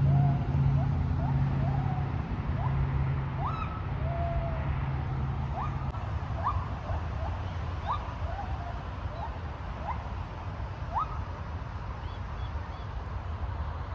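Gibbons calling: a run of short, rising, alarm-like whoops, about one a second, thinning out towards the end. A steady low freeway traffic rumble lies under them.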